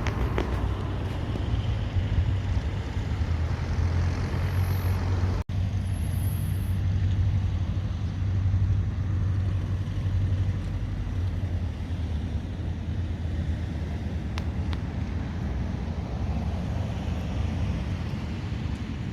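Small propeller plane's engine running with a steady low drone, broken by a sudden brief dropout about five and a half seconds in.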